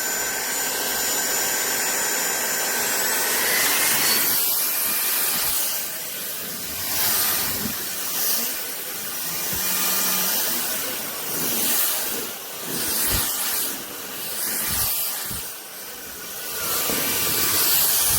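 SunSare cordless stick vacuum running, a steady rushing suction with a high motor whine that rises in pitch about three seconds in. The loudness swells and dips every second or two.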